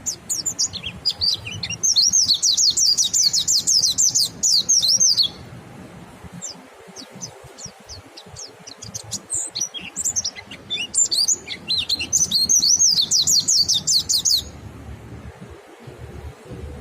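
Mountain white-eyes (pleci monty) singing: rapid, high twittering song in two long bouts, the first about two seconds in and the second about ten seconds in, with scattered single chirps between.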